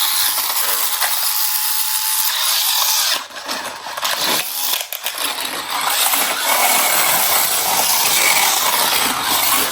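Battery-powered toy car running along a plastic track, its small electric motor whirring with a plastic clatter. The sound drops away briefly a little past three seconds in, then carries on.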